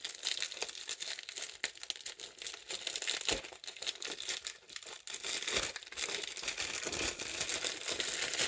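Packaging being torn open and crumpled by hand: irregular rustling and crinkling with sharp tearing crackles.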